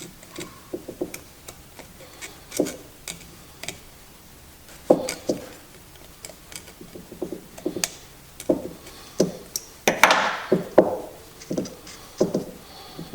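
Plastic ignition parts being handled and fitted by hand: scattered, irregular light clicks and taps, with a short scrape about ten seconds in.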